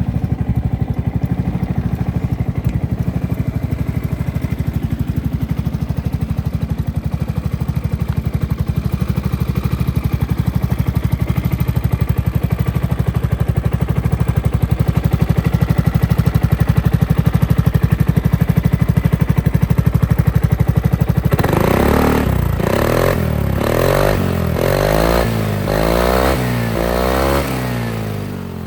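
Honda Forza MF06 scooter's 250 cc single-cylinder four-stroke engine through an OVER Racing aftermarket exhaust, idling steadily. About three quarters of the way through, a run of quick throttle blips rises and falls in pitch several times before it drops back toward idle.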